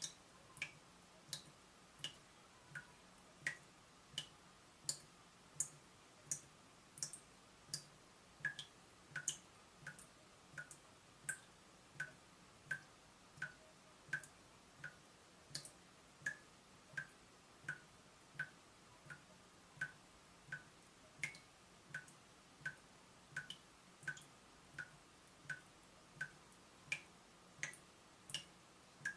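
Water dripping from a leaking tap: single drops plinking steadily, about three every two seconds, each with a short ringing note whose pitch varies from drop to drop.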